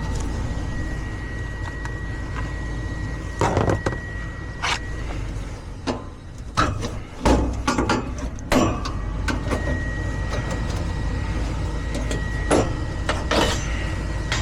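Gas furnace's newly replaced draft inducer motor running steadily, with a thin steady high tone and scattered sharp clicks and knocks. The burner flame has not lit, so the heat cycle is stalled.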